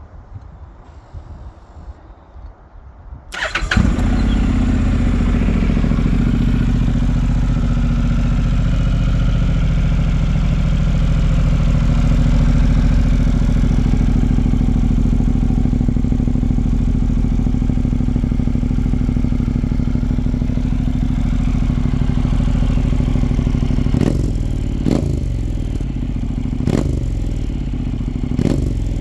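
Honda NC750's 745 cc parallel-twin engine, through an aftermarket Lexmoto carbon sports exhaust, starting about three and a half seconds in and then idling steadily with a deep, even note. Near the end come a few short blips of the throttle.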